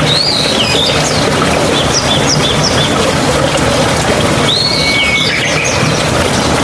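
Steady, loud rush of running water, with songbirds calling over it: a curving call shortly after the start, a quick run of short notes around two seconds in, and another curving call with a brief held whistle about five seconds in.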